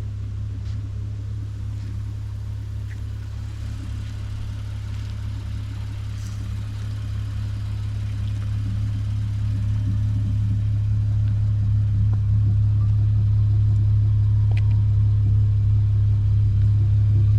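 Toyota Mark X V6 with a modified exhaust, a steady low drone while the car is driven, growing louder through the second half.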